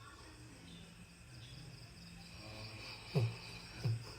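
Dog snoring: a faint low drone, then two short louder snores, each falling in pitch, about three seconds in and just before the end. Crickets chirp steadily in the background.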